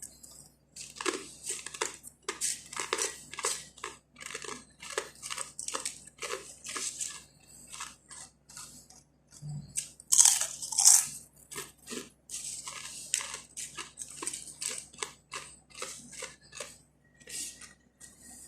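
Close-up chewing of crunchy fried kubus (Arabic flatbread): a steady run of crisp crunches, roughly two a second, with a louder burst of crunching about ten seconds in.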